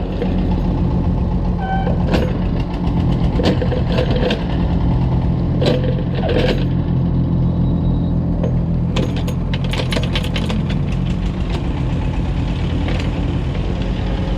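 Excavator working: its diesel engine runs steadily, with scattered metallic clanks and knocks that come thickest about nine to ten seconds in.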